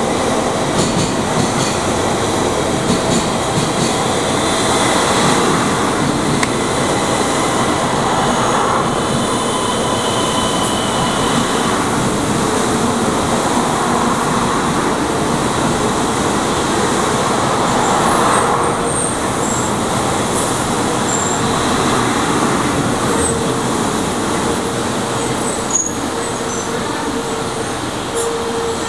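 JR 700 series Shinkansen train rolling past as it pulls into the station, a steady rush of wheel and running noise from its passing cars. A steady whine comes in near the end.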